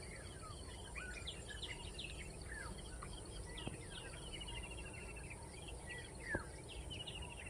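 Several small birds calling and chirping over a steady low background noise, with short downward-sweeping notes and quick trills, and one louder sharp call near the end.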